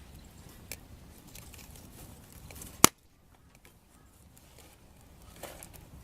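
Wood fire crackling with faint scattered snaps, and one loud sharp pop about three seconds in.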